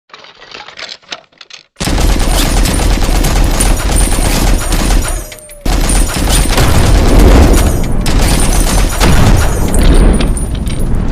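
Loud, rapid gunfire-like sound, like a burst of automatic fire. It starts suddenly about two seconds in, breaks off briefly a little past the middle, and then resumes.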